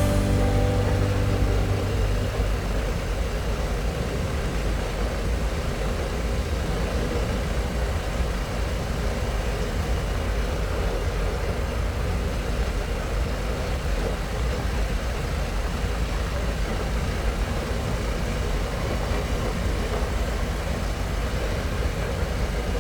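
Harley-Davidson Pan America's 1250 cc Revolution Max V-twin running steadily while riding, with a constant rush of wind and road noise.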